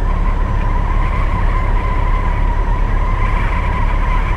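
Steady low rumble of a stationary truck buffeted by storm wind, with a high steady whistle that sets in at the start, holds for about five seconds and then fades.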